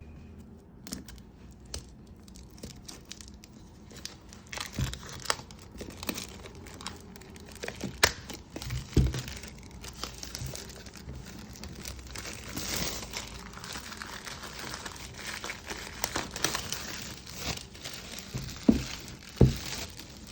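Packaging being unwrapped by hand: plastic and paper crinkling and tearing, with scattered clicks and a few louder knocks.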